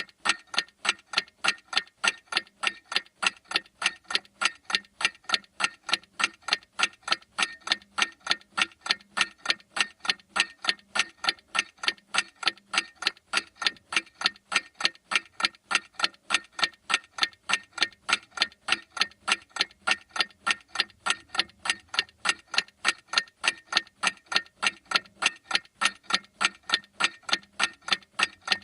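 A clock ticking steadily, with fast, evenly spaced sharp ticks, several a second.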